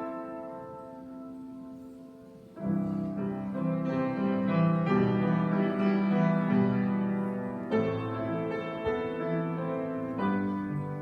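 Piano playing slow, sustained chords: a held chord fades away, then fuller, louder chords come in about two and a half seconds in and move on every second or so.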